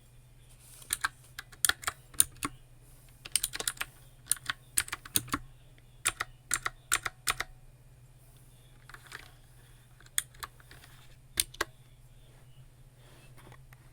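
Typing on a computer keyboard: runs of sharp key clicks in bursts, then a few scattered keystrokes after a pause.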